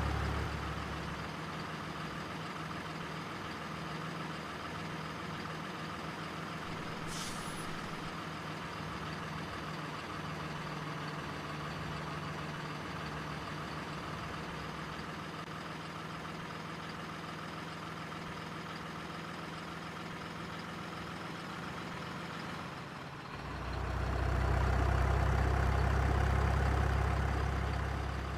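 Diesel truck engine sound from a remote-control truck's sound unit, running steadily with a brief high hiss about seven seconds in. Near the end it turns deeper and louder for a few seconds, then fades.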